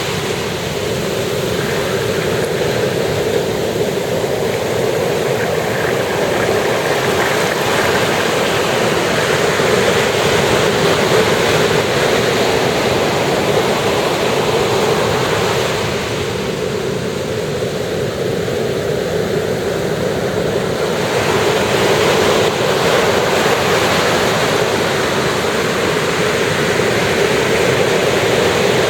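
Ocean surf washing onto the beach in a continuous rush, easing slightly for a few seconds a little past the middle.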